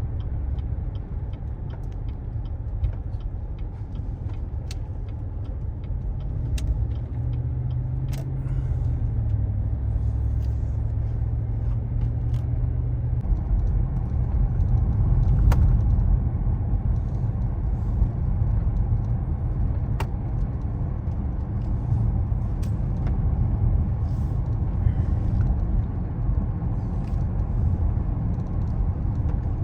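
A vehicle driving: steady low rumble of engine and road noise, with a few faint ticks scattered through it.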